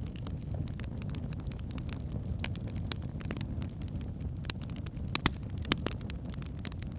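Wood fire burning in a fireplace: burning logs crackling with irregular sharp pops over a steady low rumble of the flames, the loudest pops a little past the middle.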